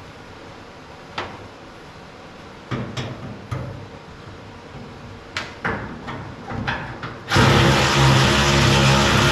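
Light clicks and knocks from hand work on metal, then about seven seconds in a loud, steady motor-driven machine starts abruptly and keeps running.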